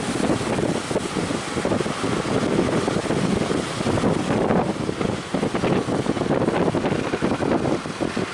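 Strong wind buffeting the microphone over the rush of sea waves.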